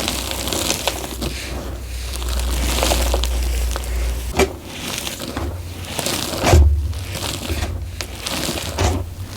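Gym chalk being crushed and crumbled in a bamboo bowl: a run of dry crunching, with a couple of sharper cracks midway and about two-thirds through.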